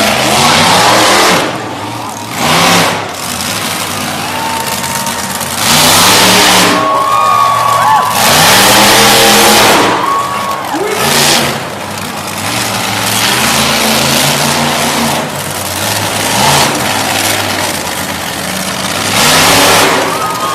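Monster truck engine revving hard again and again, its pitch rising and falling with each blip of the throttle.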